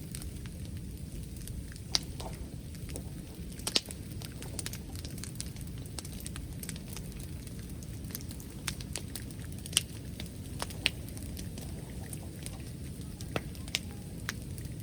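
Wood bonfire crackling, with sharp irregular pops over a steady low rumble.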